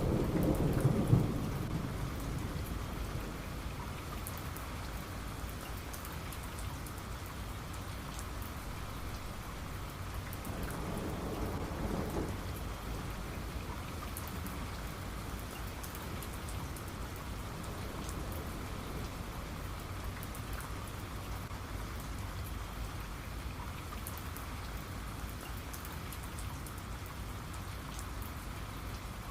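Steady rain with thunder: a rumble dies away over the first couple of seconds and a fainter roll comes around the middle, then rain alone.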